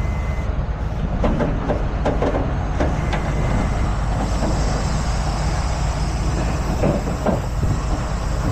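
Heavy tow truck's engine running steadily, with scattered metallic clanks and knocks, and a hiss coming in about four seconds in.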